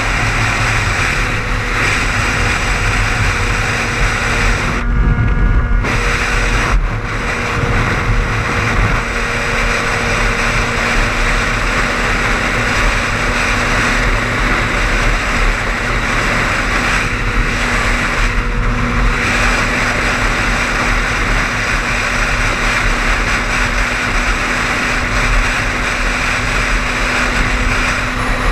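Steady road and engine noise of a car at highway speed, heard from inside: a low rumble under a continuous hiss. The hiss briefly drops out about five seconds in and again near the middle.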